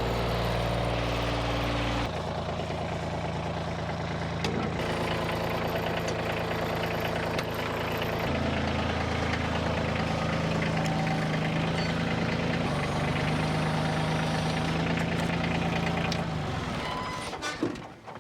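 Kioti CK2610 compact tractor's diesel engine running, its speed shifting a couple of times as it works to lift a heavy log, then stopping near the end.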